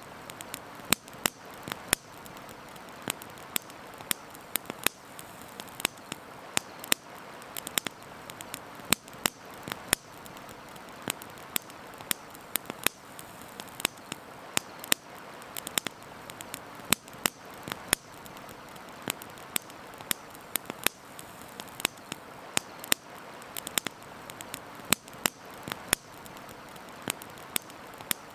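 Wood campfire crackling: irregular sharp pops and snaps, several a second, some much louder than the rest, over a steady soft hiss.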